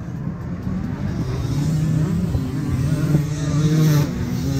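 Dirt bike engine running at a steady idle.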